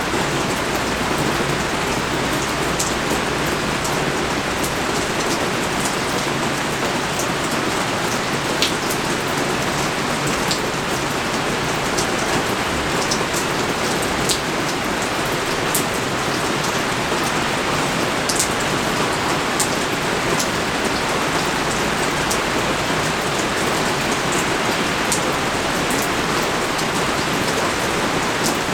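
Steady heavy rain pouring down, an even dense hiss with scattered sharp ticks of single drops landing.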